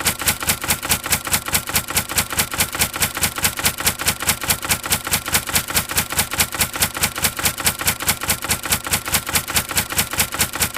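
A rapid, even train of sharp clicks, about six or seven a second, that cuts off abruptly near the end.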